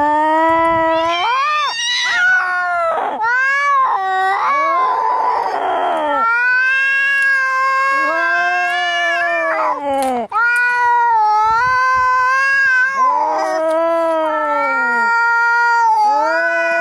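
Domestic cats yowling and caterwauling in an angry, fight-style standoff: a run of long, wavering yowls, one after another with short breaks, and a harsh, noisy spell about five seconds in.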